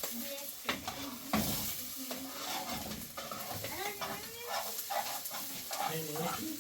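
A steady sizzling hiss with scattered clicks and knocks. Wavering, pitched calls sound low in the background a few seconds in.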